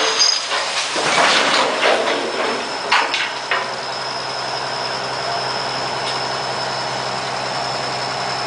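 A heavy vehicle's engine running steadily, with a thin high whine over it. There are a few knocks and some clatter in the first three and a half seconds.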